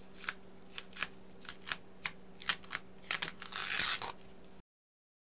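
Adhesive tape being peeled off the edges of a painting: a string of short crackles and ticks, then a longer, louder ripping stretch about three seconds in, before the sound cuts off suddenly.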